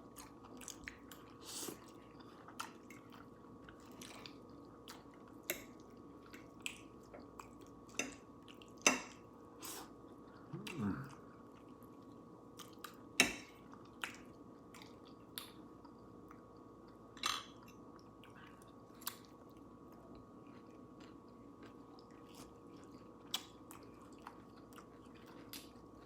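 Close-miked chewing of a person eating, with scattered short wet mouth clicks and smacks at irregular intervals. A faint steady hum sits underneath.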